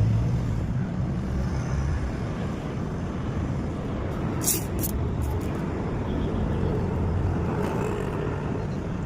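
Steady low rumble of vehicles running, with two short, sharp hisses of air about four and a half seconds in.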